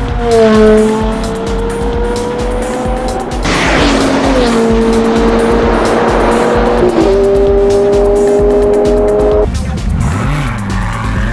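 Supercar engines pulling hard under acceleration, their pitch dropping at gear changes about four and seven seconds in, with a rush of noise as a car goes past a little before the first shift.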